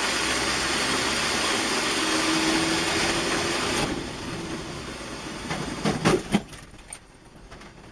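Loud, steady vehicle noise in a dash-cam recording that drops away about four seconds in, followed by a few sharp knocks about six seconds in.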